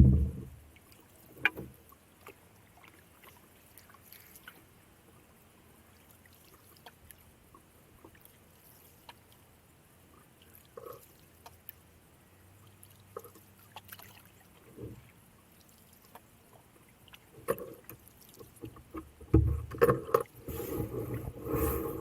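Canoe being paddled: a sharp knock at the start and another about a second and a half in, then scattered small knocks and drips over quiet water, with louder paddle and water noise in the last few seconds.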